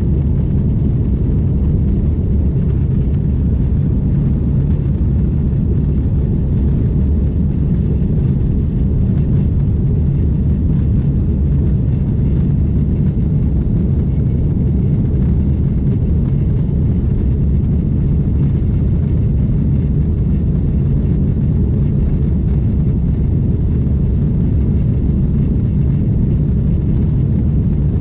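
Steady low rumble of an airliner's engines and rushing air, heard inside the passenger cabin, as during the takeoff and climb.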